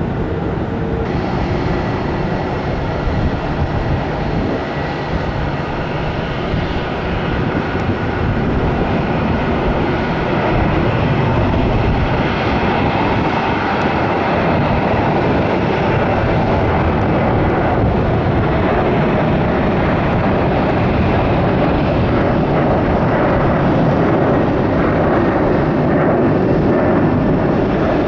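Jet engines of a Boeing 737-800 at go-around thrust, a steady jet noise that grows louder about ten seconds in and then holds.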